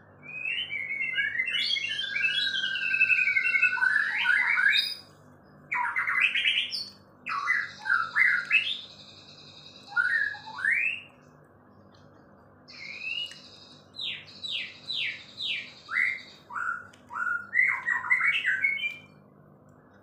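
A songbird singing in loud, varied bouts of rapid trills and quick rising and falling whistled notes, broken by short pauses.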